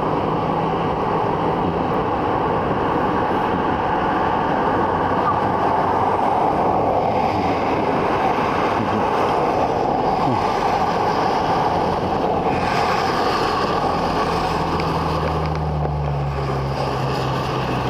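A vehicle engine running with a low steady hum under a constant rushing noise; the hum drops in pitch about fifteen seconds in.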